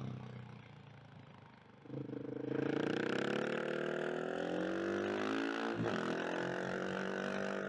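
KTM 690 SMC R's single-cylinder engine. It runs quietly off the throttle at first, then accelerates hard from about two seconds in, its pitch climbing. There is a brief break for a gear change about three quarters of the way through, and then it pulls on.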